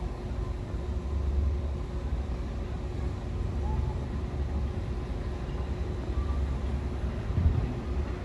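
New York City subway train running, a steady low rumble with a faint hum, and a thump or two near the end.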